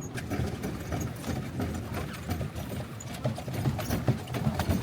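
Paddling in a clear plastic canoe: irregular knocks and clatter of paddles against the hull, with water sloshing.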